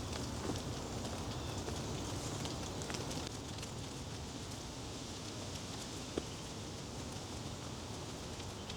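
Steady outdoor background noise with faint scattered ticks and crackles, one sharper tick about six seconds in.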